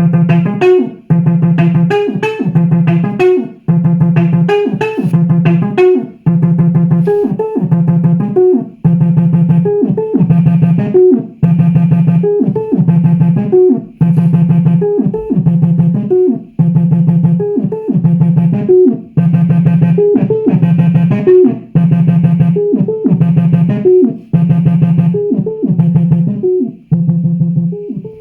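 Behringer TD-3 bass synthesizer playing a looping acid bassline: a fast, repeating sequence of short notes, many sliding in pitch, over a sustained low bass tone.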